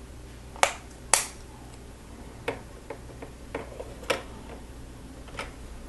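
Plastic Lego pieces clicking and knocking as they are handled and pressed onto a model: a series of short, sharp clicks at irregular intervals, the two loudest about a second in.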